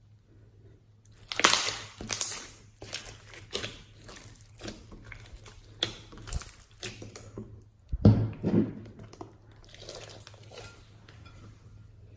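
Hands squeezing and pressing slime, making irregular crackling and squishing pops. It is quiet for the first second, and the loudest crackles come about a second and a half in and again about eight seconds in.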